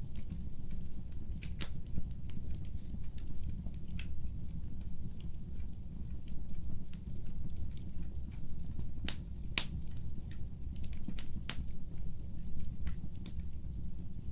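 Fireplace fire crackling: irregular sharp snaps and pops over a steady low rumble, with a few louder pops past the middle.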